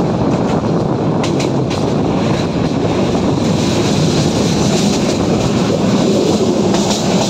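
Passenger train running at speed, heard from an open carriage window: the steady noise of the wheels on the rails, with a few light clicks about a second and a half in.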